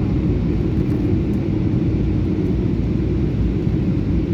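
Airliner engines running with a steady low rumble and a faint held tone over it.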